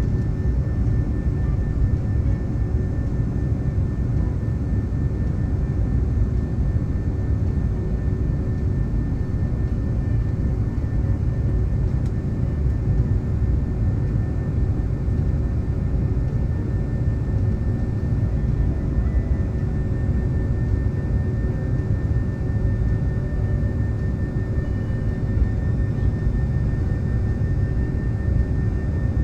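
Steady engine and airflow noise inside the cabin of a passenger jet, a deep even rush with a faint constant whine above it.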